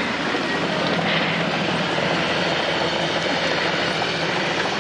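Strong wind blowing in a steady rush, ending abruptly.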